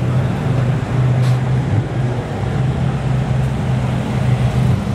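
A car engine running steadily, a constant low drone.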